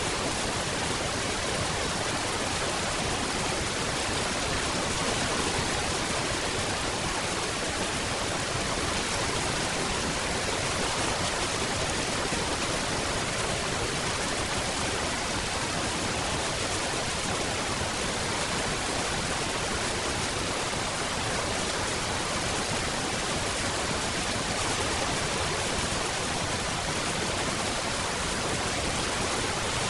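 Steady rain, an even hiss without distinct drops or thunder.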